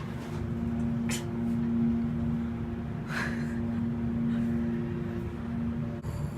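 Steady low hum with two level tones, broken by a brief rustle or click about a second in and again about three seconds in.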